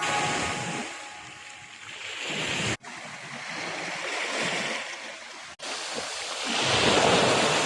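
Sea surf washing onto a beach, swelling and fading in turn, loudest near the end. It cuts out suddenly twice for a moment.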